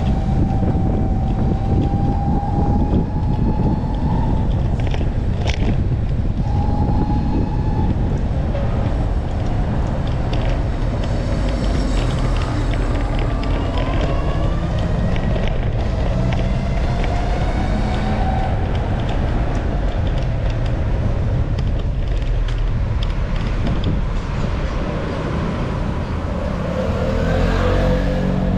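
Wind rumbling on the microphone of a moving rider, with road traffic around: vehicle engines whose pitch rises and falls as they speed up, slow and pass.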